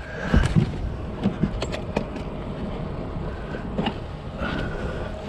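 Electric trolling motor humming steadily, with scattered knocks and clatter of gear being handled in the boat.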